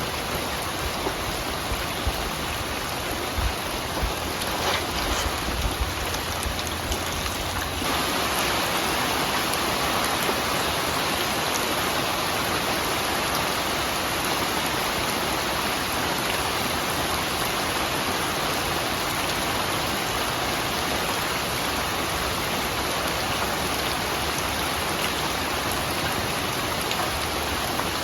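Steady rain falling, a dense even hiss of drops, which becomes a little louder and fuller about eight seconds in.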